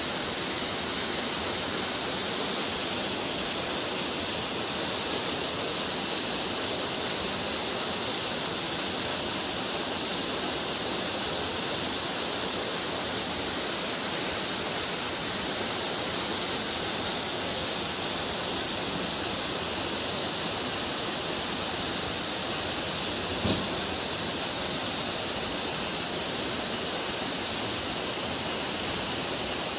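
Heavy rain pouring down, a dense, steady hiss that never lets up. A single faint click sounds about two-thirds of the way through.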